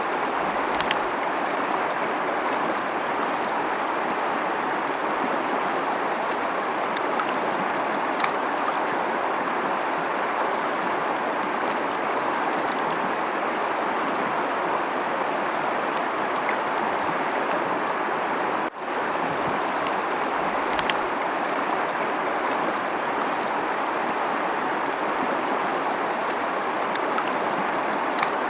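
Fast-flowing river: a steady, even rush of running water with faint small splashes, and a momentary dip in the sound about two-thirds of the way through.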